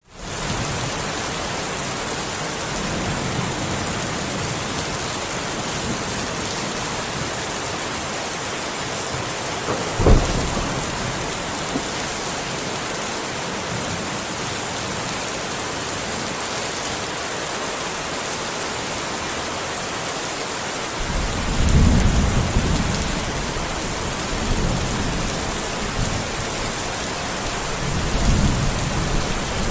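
Steady rain falling, with a sharp crack of thunder about a third of the way through and low rolling thunder rumbling twice in the later part.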